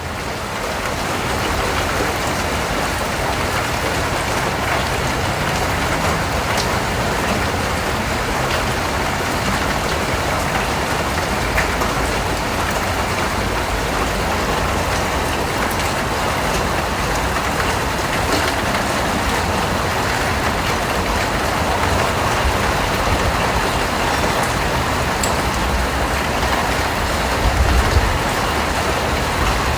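Steady rain falling, a dense, even hiss of drops that builds over the first second or two and then holds level.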